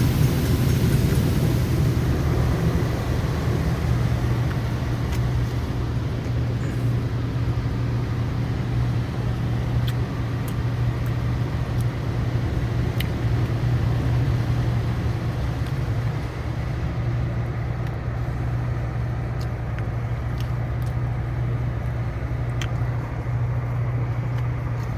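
Automatic car wash heard from inside the car: a steady low hum of the car and the wash machinery, with water spray hissing on the bodywork that thins out about two-thirds of the way through.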